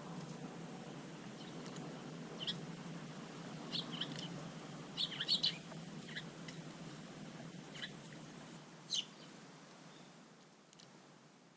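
Short, high chirps of small garden birds: scattered single calls, with a quick run of several about five seconds in, over a low steady hum.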